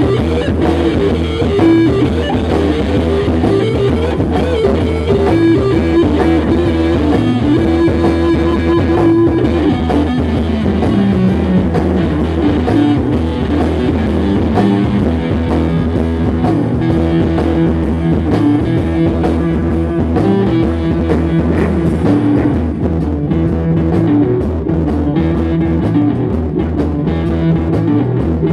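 Instrumental rock music: electric guitar and bass over a drum kit, with no singing.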